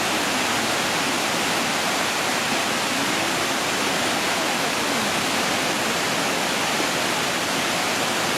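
A waterfall rushing in a steady, even roar of falling water.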